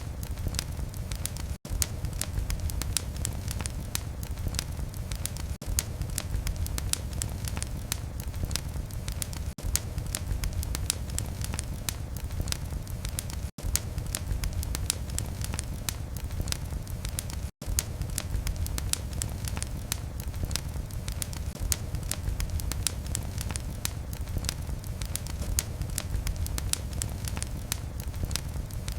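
Wood fire burning in a fireplace: a steady low rumble of flame with frequent sharp crackles and pops. The sound drops out for a moment a few times.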